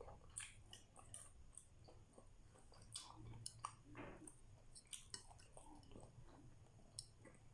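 Faint close-up chewing and wet mouth sounds of someone eating grilled street-food skewers, with scattered small clicks.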